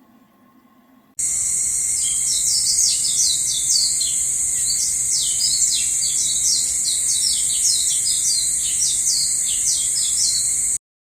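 Many small birds chirping in quick, rapid notes over a steady high-pitched insect-like hiss. It starts suddenly about a second in and cuts off abruptly near the end.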